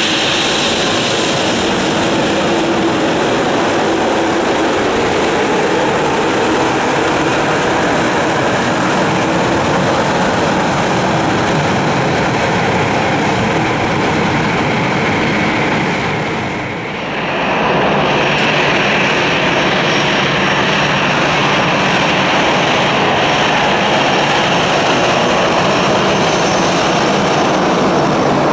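Jet airliner engines at taxi power, a steady loud whine over a rumble: first an Embraer E190's turbofans, then, after a brief dip about two-thirds of the way through, an Airbus A319's engines with a brighter, higher whine.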